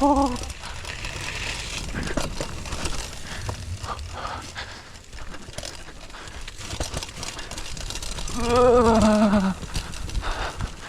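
Small bicycle rolling down a dirt jump trail: tyres crunching over gravel and the frame rattling, with wind rumbling on the microphone. A short 'oh' at the start and a louder drawn-out 'ooh' from the rider about eight and a half seconds in.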